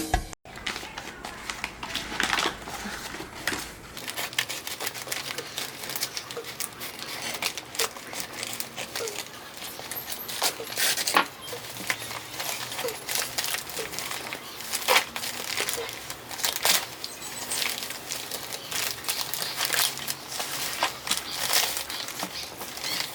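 Packaging being handled, crinkling and rustling with many sharp crackles scattered throughout.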